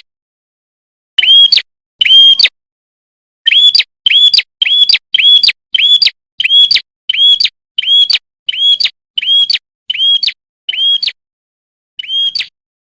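Red-headed prenjak calling in a fast series of short, sharp, arched chirps, about two a second, pausing briefly near the start and again near the end.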